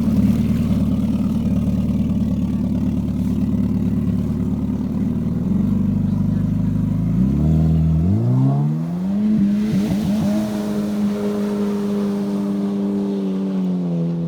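Honda Aquatrax R-12X Turbo jet ski's turbocharged four-cylinder engine running through a custom open straight-through stainless exhaust that bypasses the muffler and water lock. It idles steadily, then about seven seconds in the revs rise smoothly and hold at a higher steady speed, easing back a little near the end.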